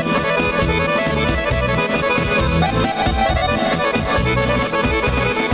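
Instrumental break of a live Balkan folk band: accordion playing the melody over bass and a steady beat.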